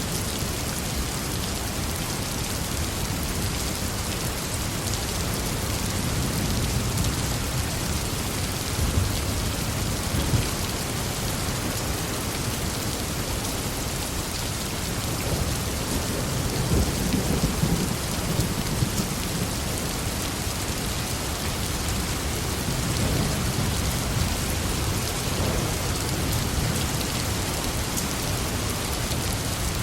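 Heavy rain falling steadily, with low rolls of thunder rumbling several times.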